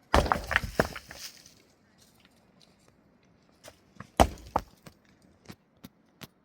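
Two hard blows, one just after the start and one about four seconds in, each followed by a brief scatter of clattering knocks, with a few light clicks in between.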